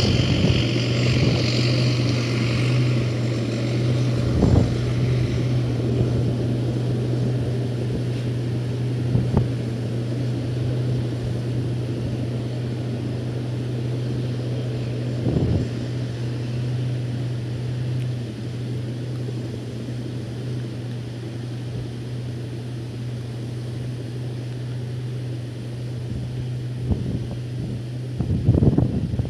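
A motor drones steadily under a rumbling, wind-like noise, broken by a few short thumps.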